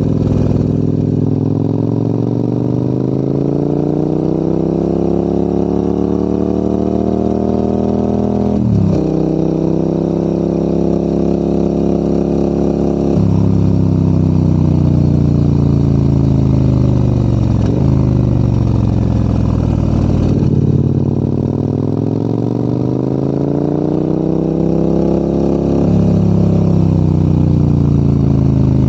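Adventure motorcycle engine pulling uphill under load. The revs climb for several seconds, then drop sharply as it shifts up about nine seconds in. The pitch drops again a few seconds later and falls away as the bike slows, then climbs again in the second half.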